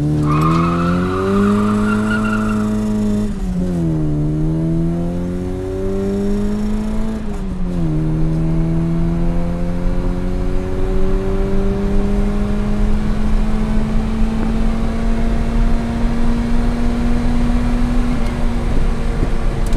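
Opel Astra GSi 16V's C20XE 2.0-litre sixteen-valve four-cylinder engine pulling hard under full acceleration, heard from inside the cabin. The revs climb and drop sharply with two upshifts in the first eight seconds, then rise slowly and steadily in a higher gear before falling right at the end, over road and wind noise.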